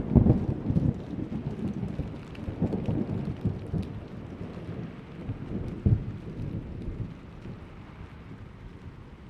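Thunder rolling over steady rain. A loud low rumble dies away over several seconds, with a brief louder jolt about six seconds in, while the rain keeps up a faint hiss.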